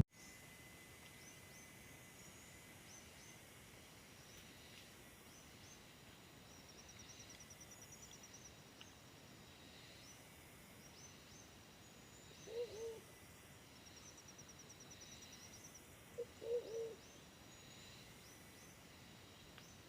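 A bird gives a low, short call twice in the second half, the second time as a quick run of notes. Faint high chirping goes on throughout.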